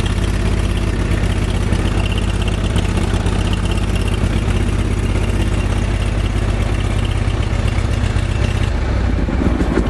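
Single-cylinder Kohler engine of a Cub Cadet 102 garden tractor running steadily just after a cold start, settling lower near the end.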